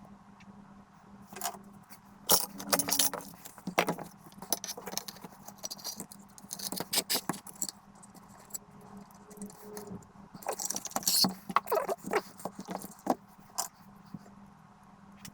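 Irregular clicking, clinking and light rattling of small hard objects being handled on a workbench, in bursts with short pauses, over a faint steady low hum.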